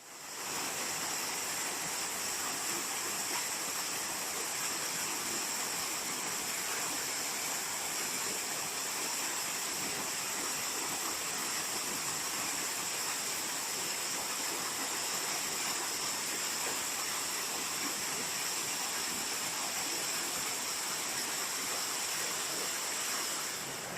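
Waterfall: a steady rush of falling water that fades in over the first half second and then holds even.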